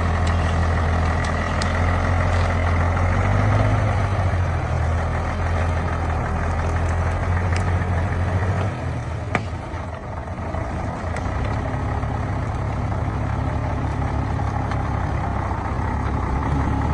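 Heavy diesel engine running steadily at low revs, easing off briefly about nine seconds in, where a single sharp click is heard.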